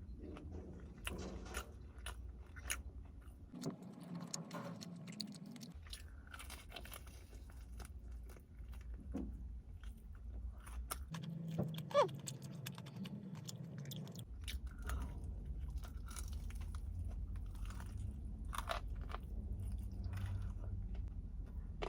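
Close-up biting and chewing of crispy fried chicken, the coating crunching and crackling in many sharp little bursts.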